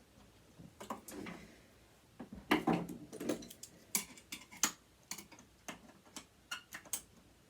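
Small metal clicks and taps of tools and parts being handled while a sewing machine is dismantled. There is a louder jumble of knocks about two and a half seconds in, then single sharp clicks roughly every half second.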